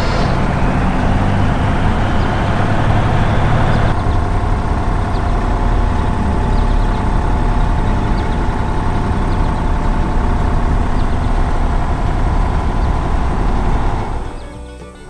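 Heavy diesel machinery engine running steadily with a deep rumble; its sound changes about four seconds in and dips briefly near the end.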